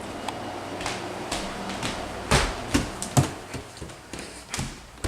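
A dozen or so irregular taps and knocks, the loudest about two seconds in, over a faint steady low hum.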